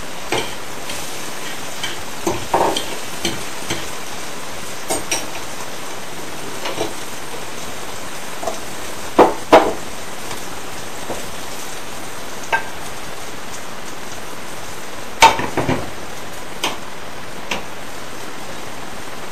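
Food sizzling steadily in a frying pan, with scattered clinks and knocks of a utensil against the pan, the loudest a pair of knocks about nine seconds in and another about fifteen seconds in.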